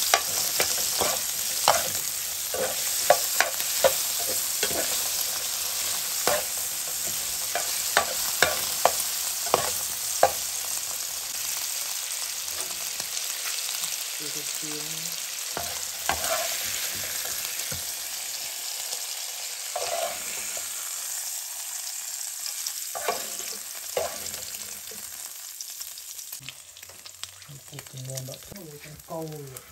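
Shrimp and chopped garlic sizzling in hot oil in a nonstick frying pan, stirred with a spatula that clicks and scrapes against the pan many times in the first third. The sizzle slowly fades toward the end.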